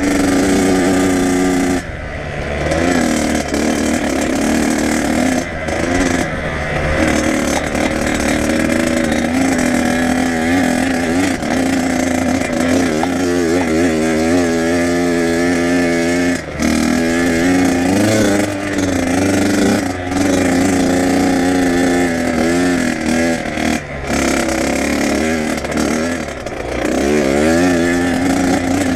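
Kawasaki KX100 two-stroke dirt bike engine under way, revs climbing and falling as it is ridden through the gears. The throttle is briefly shut off several times, the revs dropping and then rising again.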